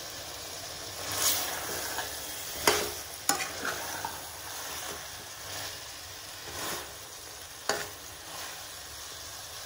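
Chicken curry sizzling in a metal kadhai as a metal spatula stirs it, with a steady hiss. Three sharp knocks of the spatula against the pan stand out, two close together about a third of the way in and one near the end.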